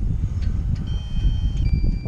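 Wind buffeting the microphone as a loud, uneven low rumble. Thin, steady, high electronic tones come and go over it about halfway through.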